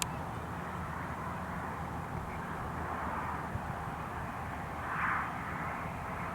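Steady low outdoor rumble, with a sharp click at the very start and a brief higher call about five seconds in.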